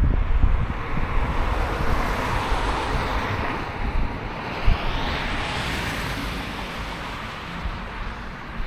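A vehicle passing by: its noise swells to a peak about halfway through, then fades. Low wind rumble on the microphone runs underneath.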